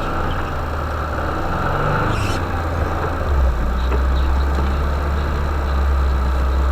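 Vehicle engine running with a steady low drone; the engine note changes about three seconds in.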